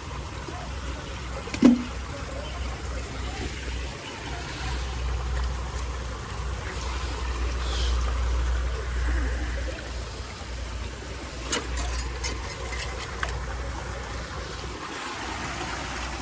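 Floodwater trickling and running steadily through a drainage gap, under a low steady rumble. A few sharp clicks sound about three-quarters of the way through.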